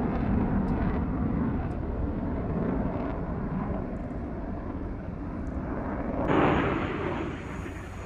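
Eurofighter Typhoon's twin EJ200 jet engines: a deep, continuous rumble that slowly weakens, then swells sharply about six seconds in before fading away.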